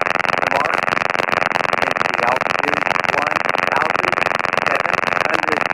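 Robinson R22 helicopter in cruise flight: its piston engine and rotor make a steady, dense cabin drone that does not change in level.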